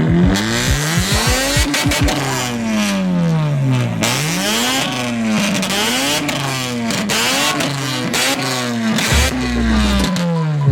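Mazda RX-8's rotary engine revved hard over and over, its pitch climbing and dropping in a string of rev blips, loud, with sharp crackles in the first couple of seconds.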